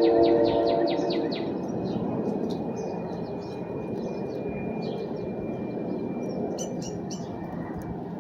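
Birds singing outdoors: a fast trill of repeated falling chirps that ends about a second in, then scattered chirps, over a broad background rumble that slowly fades.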